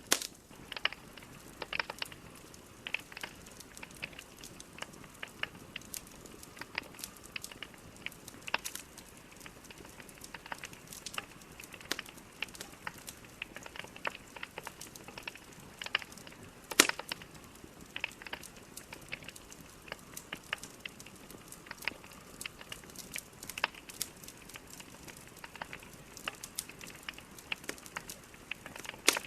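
Logs burning in a fireplace, crackling and popping irregularly over a low steady hiss, with one sharp, much louder pop about two-thirds of the way through.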